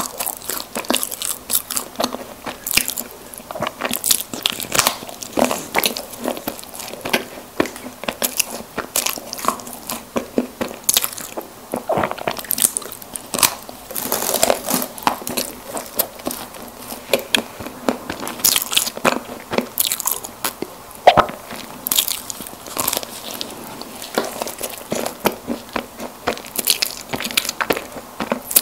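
Close-miked chewing and biting of soft chocolate snack cakes such as choco pies, with many small, irregular mouth clicks and smacks.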